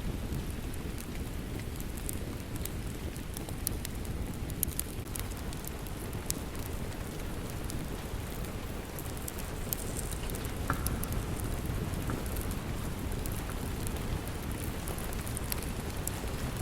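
Steady rain with a low, even rush, and a wood fire crackling, with scattered sharp pops and snaps throughout.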